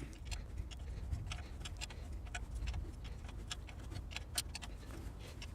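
Ratcheting wrench clicking in quick, uneven strokes as a tie rod end's ball-stud nut is unscrewed, over a steady low rumble.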